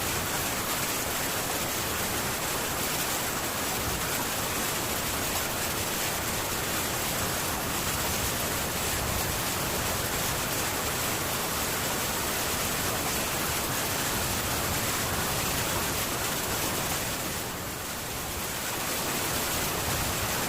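Heavy rain falling steadily on a metal tin roof, a dense, even hiss that softens briefly near the end and then builds again.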